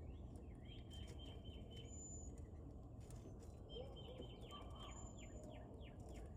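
Faint wild birds calling: two quick runs of short chirps with falling notes, and a thin high whistle twice, over a steady low background hum.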